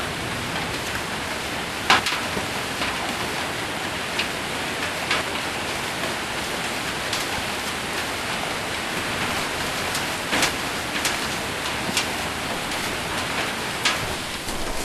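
Heavy rain with hail falling on a roof: a steady hiss of rain broken by scattered sharp hits of hailstones, about a dozen in the span.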